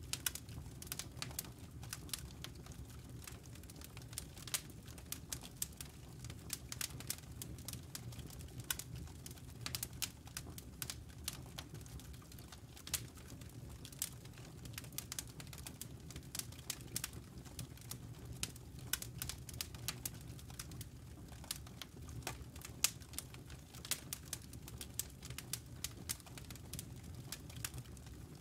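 Wood fire crackling: dense, irregular sharp pops and snaps from burning logs over a low, steady rumble.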